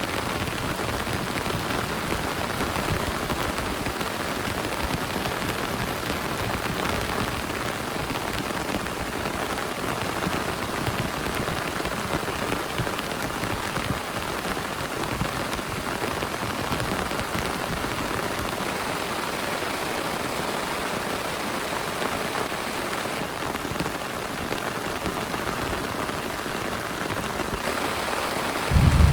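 Heavy rain pouring steadily onto a surface. Near the end a sudden loud clap of thunder breaks in.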